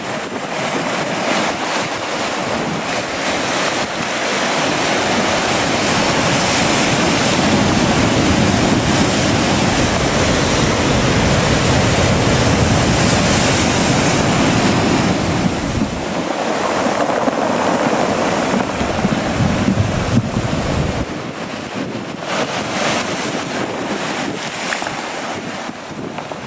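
Strong gusty wind buffeting the microphone over the sound of surf. The wind builds a few seconds in into a heavy, rumbling blast and drops back somewhat near the end.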